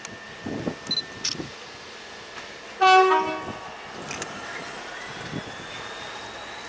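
Train horn sounding one short blast about three seconds in, its pitch stepping lower at the end, over the steady sound of a train running. A few light knocks come in the first second and a half.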